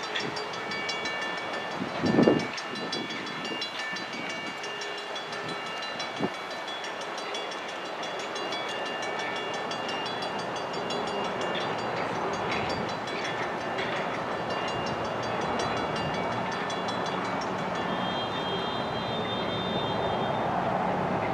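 Passenger coaches rolling away along the track, their wheels giving a steady rolling noise, while a fast, regular ringing, likely the grade-crossing bell, sounds over it. A single short, loud blast stands out about two seconds in.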